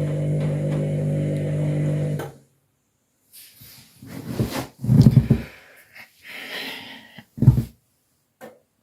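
Overloaded washing machine's motor running with a steady hum that cuts off abruptly about two seconds in. After a short silence come a few short, irregular sounds, the strongest about halfway through and again near the end.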